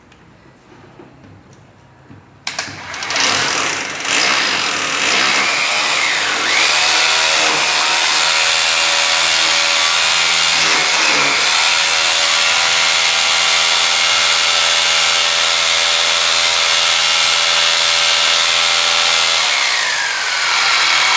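Kainuo KN8267 800 W electric hammer drill switched on about two and a half seconds in and run steadily with a high motor whine, its speed shifting several seconds in. Near the end its whine falls in pitch as the drill slows.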